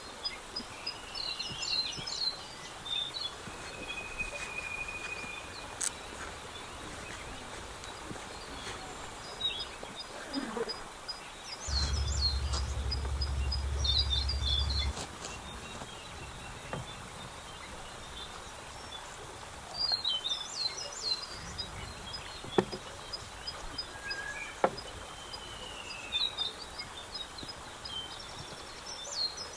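Small birds chirping and calling in short repeated bursts, with a steady, fast high ticking under them, over a constant outdoor background hiss. A low rumble comes in for about three seconds in the middle, and there are a few sharp clicks.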